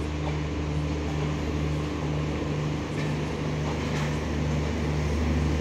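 Passenger train coaches rolling slowly past, with a steady low hum, a drone that pulses about twice a second, and a few faint clicks.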